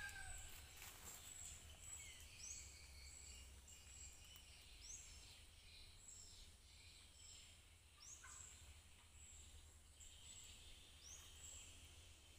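Faint bird chirps: a short high rising call repeats every second or two over a low steady rumble.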